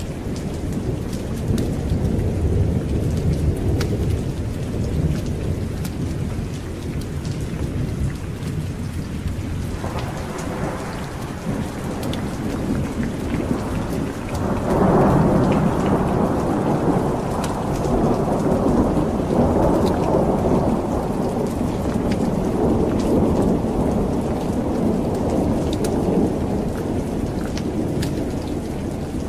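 Thunderstorm: rolling thunder over steady heavy rain. A fresh peal breaks in about ten seconds in, swells loudest around fifteen seconds, and rumbles on through most of the rest.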